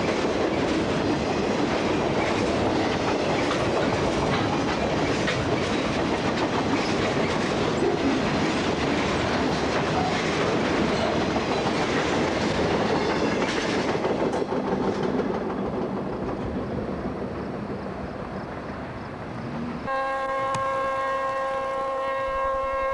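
A CSX freight train's cars rolling past with clickety-clack wheel noise, fading away over the last few seconds as the train recedes. Near the end, after an abrupt change, a steady horn chord of several tones sounds.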